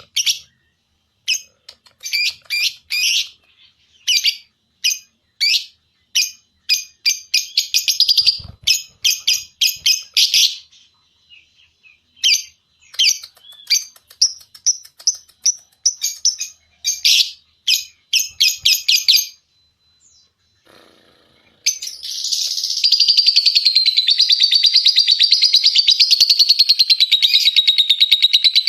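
Lovebird calling in short bursts of rapid, high chirps, then, after a brief pause about two-thirds of the way in, breaking into one long, unbroken fast trill: the 'ngekek' song that lovebird keepers train for.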